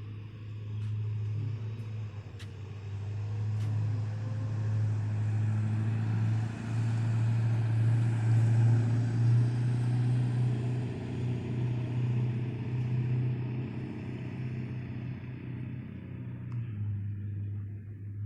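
Steady low engine hum with a broad rushing noise that swells to its loudest around the middle and eases off near the end, with a few faint clicks in the first seconds.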